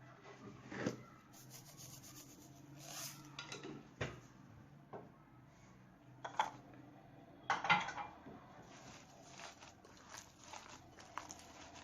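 Kitchen utensils and dishes clinking and knocking in a handful of separate strikes, the loudest about a second in and again about two-thirds of the way through.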